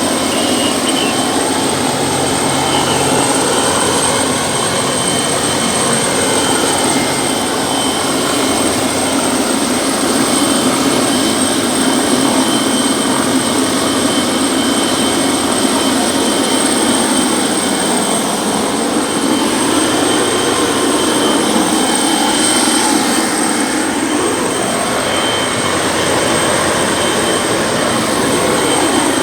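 Helicopter running close by: a steady engine whine over dense rotor and turbine noise.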